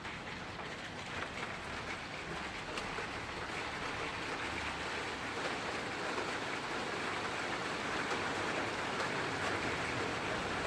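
Rain falling: a steady hiss with scattered drop ticks, growing gradually heavier.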